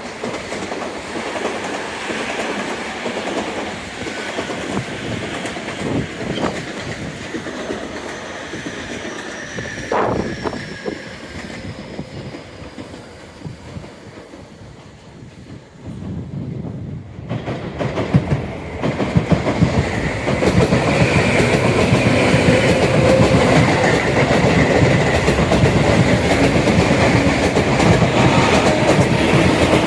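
Tobu Tojo Line electric train passing, steel wheels clicking over the rail joints. The sound fades somewhat toward the middle, then grows much louder from about eighteen seconds in as a train runs close by with a rapid clatter.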